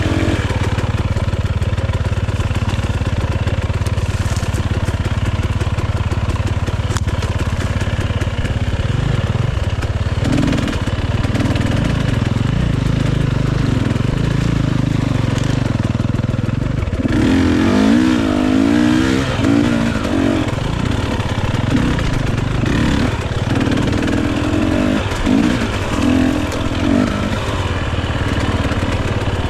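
Dirt bike engine running under load, revving up and down as the throttle is worked, with the clearest run of quick rises and falls about two-thirds of the way through.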